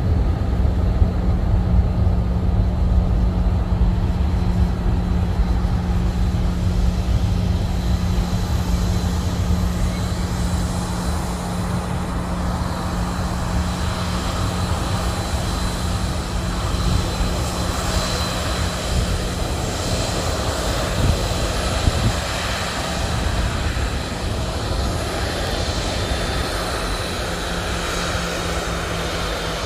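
Airliner coming in to land low overhead: a steady, heavy low engine rumble, with a high engine whine building from about a third of the way in.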